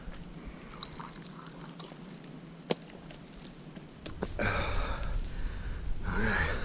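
A person drinking water: quiet sips and swallows, with a single sharp click a little past the middle, then louder breathy sounds in the last couple of seconds.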